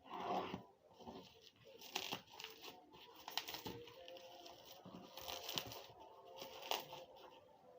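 A parcel's packaging being torn open and crinkled by hand, rustling in irregular bursts.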